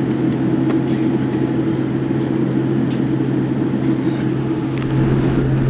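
Steady cabin hum inside a Boeing 787-9 airliner, with a constant low drone under a wash of air noise.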